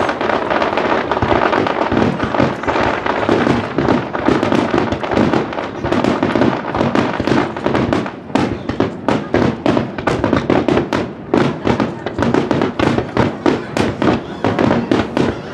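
Fireworks display going off: a dense, unbroken barrage of overlapping bursts, then from about eight seconds in a rapid run of separate sharp bangs, several a second.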